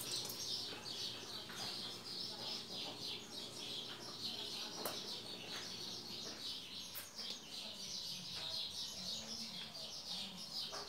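Birds chirping steadily: a dense, continuous run of short, high, quickly repeated chirps, with a few faint clicks.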